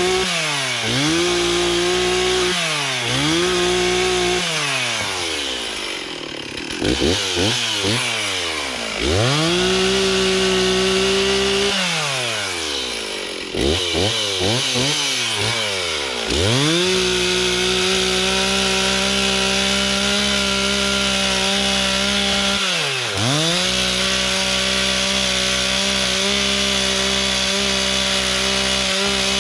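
Stihl chainsaw being throttled: its engine revs up and drops back to idle several times, then runs at full throttle for long stretches while cutting wood, with one brief drop in revs about two-thirds of the way through.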